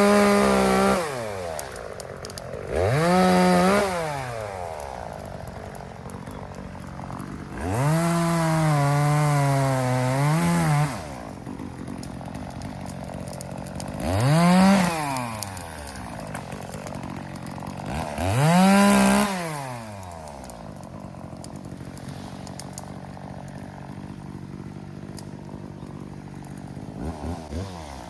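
Two-stroke chainsaw idling and revving up for short cuts about five times, each rev rising to full speed and dropping back to idle. The third and longest cut, around eight to eleven seconds in, has its pitch dipping as the chain bogs down in the wood.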